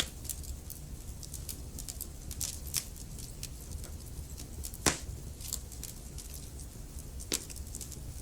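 Wood fire crackling: a steady low rumble of flames with frequent small ticks and snaps, and sharper pops at the start, about five seconds in and near the end.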